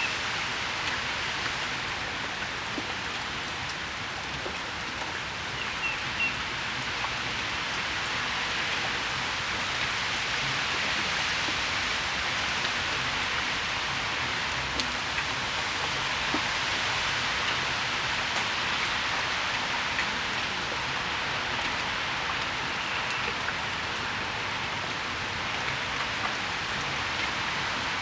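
Steady rain shower falling on a patio: an even hiss with scattered individual drops ticking.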